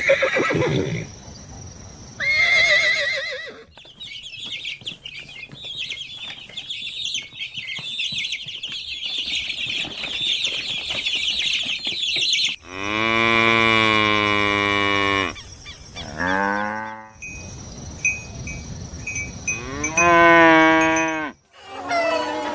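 Cattle mooing: a long low moo in the second half, a shorter one just after it, and a third near the end. Before the moos there is a dense, high chirping for several seconds.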